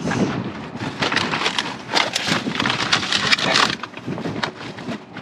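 Packaged snack foods rustling, crackling and knocking as they are handled and set down, a quick irregular run of crinkles and taps that thins out after about three and a half seconds.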